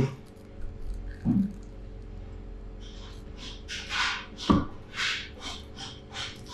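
Crunching into a crispy deep-fried Sri Lankan fish roll close to the microphone: a dull knock about a second in, then from about three seconds on a run of irregular crackly crunches, one louder than the rest, as the roll is bitten and chewed.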